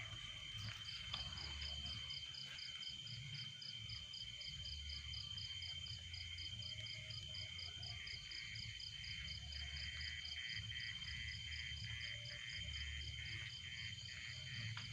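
Night insects, crickets, chirping: a steady high-pitched trill with a rhythmic pulsed chirp about four times a second over it, and a low rumble underneath. This is the droning sound heard in the derelict factory.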